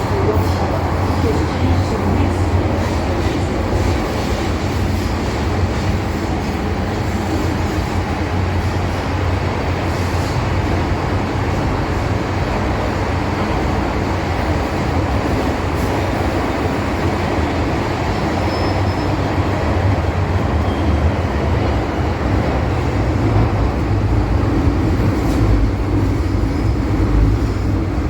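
MTR Kwun Tong line M-Train running between stations, heard from inside the carriage: a steady, loud rumble of wheels on rail and traction equipment.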